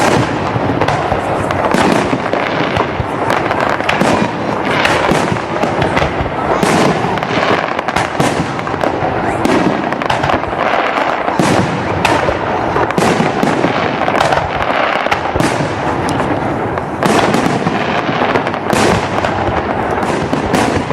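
Fireworks salute: aerial shells bursting one after another in a dense, continuous run of bangs and crackling.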